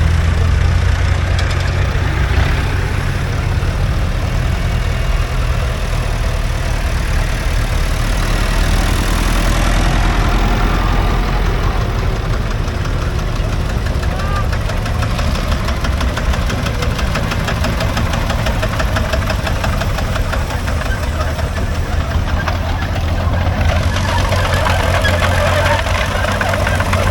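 Vintage farm tractor engine running steadily at low speed, a continuous low engine note throughout.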